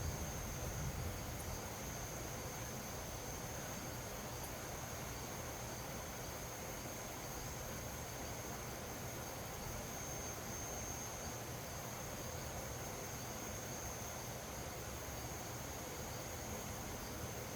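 Crickets trilling steadily at one high pitch over a soft, even background hiss.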